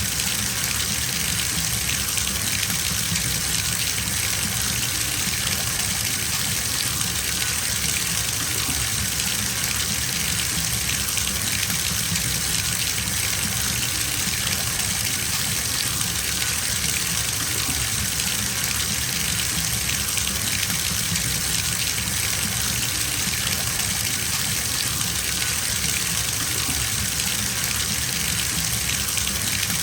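Bathtub filling from a running tap: a steady gush of water pouring into the tub, even and unchanging.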